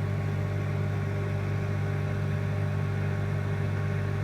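Samsung combination microwave oven running while heating a jug of water: a steady, even hum that does not change.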